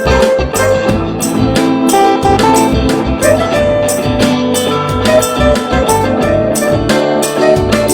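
A live band jamming an improvised instrumental: guitar notes over a steady drum-kit beat with regular cymbal hits.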